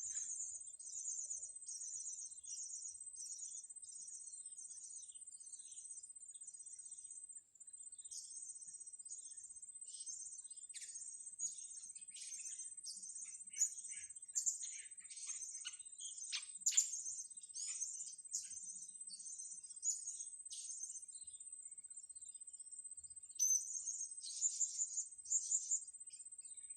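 Blue-crowned hanging parrot (serindit) calling: a long series of short, very high, thin chirps, about two a second. The chirps pause briefly about seven seconds in and again a few seconds before the end, over a steady high-pitched whine.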